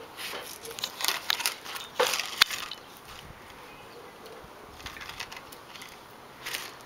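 Small rocks crunching and clicking as toy Tonka trucks are pushed and played through them. The clicks come in irregular clusters, thickest in the first couple of seconds, then quieter before picking up again near the end.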